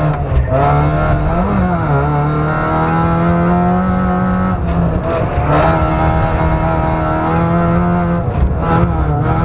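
Fiat Punto engine heard from inside the cabin, running hard at high, steady revs under driving, its note held for seconds at a time and briefly breaking or dipping about half a second in, around five seconds in and near the end.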